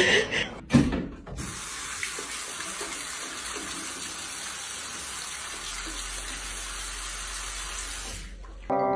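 Steady, even hiss of running water, like a tap running, starting after a brief thump about a second in.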